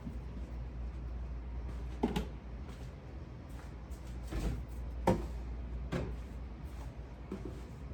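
Refrigerator being emptied and cleaned: four knocks and clunks of shelves, drawers or items being handled, the loudest about five seconds in, over a steady low hum.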